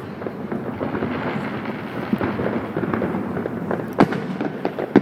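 Fireworks display: dense crackling throughout, with a few sharp bangs near the end, the loudest about four seconds in.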